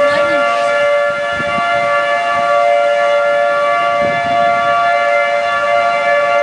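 Outdoor civil-defense warning siren sounding a steady tone, several pitches held together without rising or falling, the alert given for the severe thunderstorm.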